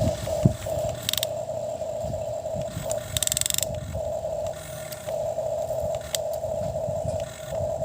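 Toy excavator's small electric motor and gearbox whining steadily, cutting out briefly now and then as it stops and starts. A sharp click about half a second in and short rattling bursts near the start and in the middle.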